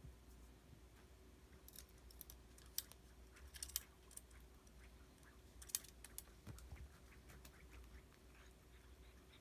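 Irregular light clicks and taps while a cat is being played with, a few sharper ones about three and six seconds in, over faint room hum.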